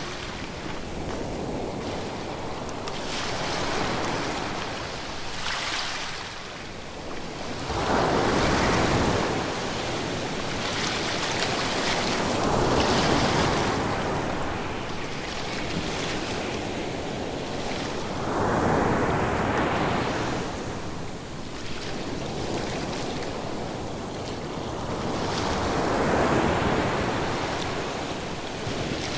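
Ocean waves breaking and washing ashore, each surge swelling and fading every several seconds.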